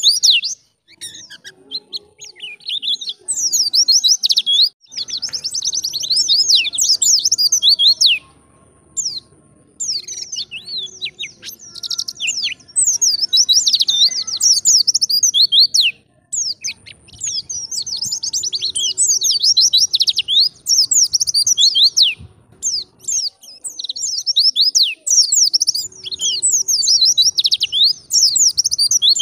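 White-eye (pleci) singing a fast, high-pitched twittering song in the wild-type 'ngalas' style. The rapid chirps come in phrases several seconds long, broken by short pauses.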